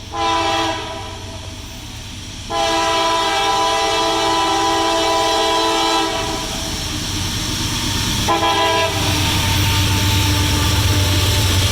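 Freight locomotive's multi-tone air horn: a short blast, a long blast of about three and a half seconds, then another short blast. After it the train rumbles louder as it nears, with a low diesel drone.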